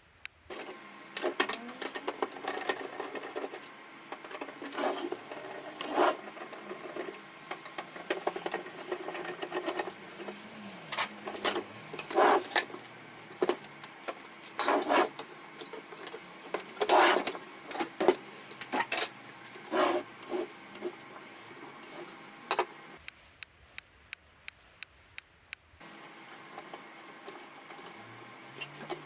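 Canon MF4018 laser printer running: its motor and gear train turn steadily, with irregular loud clunks and clicks. It stops for a few seconds near the end, then starts again.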